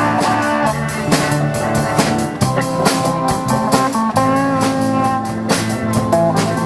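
Live band playing an instrumental passage: a guitar melody over a steady drum kit beat, with no singing.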